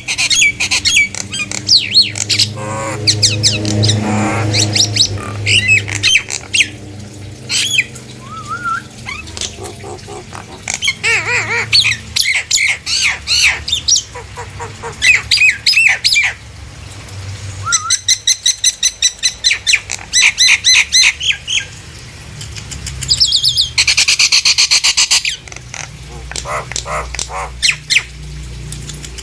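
Nias hill myna singing loudly. It gives a varied stream of whistles, harsh squawks and runs of rapid repeated notes, with a dense buzzy burst near the end.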